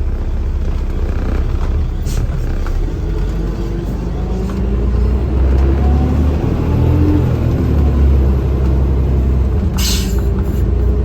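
Garbage truck's diesel engine running, heard from inside the cab, its pitch rising and falling as engine speed changes, with a short hiss about ten seconds in.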